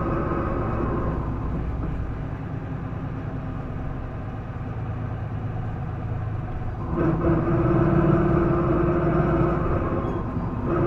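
Isuzu Erga PDG-LV234L2 city bus engine heard from inside the bus, a unit that makes an odd noise it did not make when new. The engine eases off after about a second, then picks up strongly under load about seven seconds in, with a brief dip near the end.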